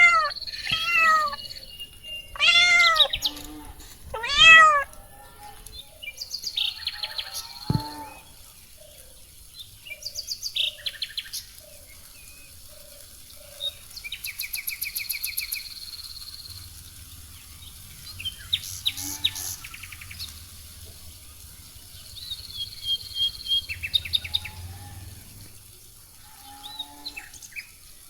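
A cat meows three times in the first five seconds, each a loud call that rises and falls. Afterwards birds chirp and insects trill over a steady high-pitched hiss.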